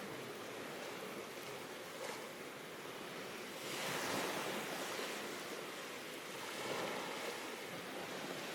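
Sea waves washing ashore, the surf swelling louder about four seconds in and again near seven seconds, with some wind.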